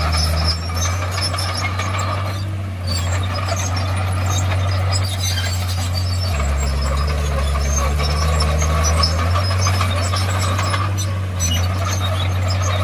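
Crawler bulldozer's diesel engine running under working load, its low note shifting about half a second in, again around six seconds and around nine seconds. Metallic squeaking and clanking from the steel tracks sounds over it.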